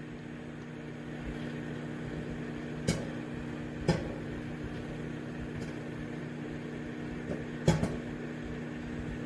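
Microwave oven running with a steady hum while popcorn kernels pop in a silicone popper inside it: four scattered sharp pops, about three and four seconds in and a close pair near the end, the sparse popping of the early stage.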